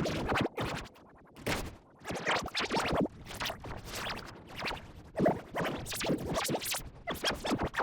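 Choppy, scratch-like stuttering mixed with music: a cartoon clip's soundtrack cut up and distorted by editing effects until no words can be made out.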